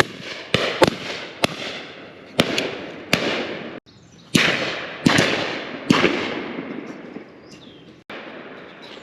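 Shotguns firing at driven pheasants: about nine shots, some close and loud and some farther off, come in quick succession over the first six seconds. Each shot trails off in a long rolling echo, and the last few seconds hold only the fading tail.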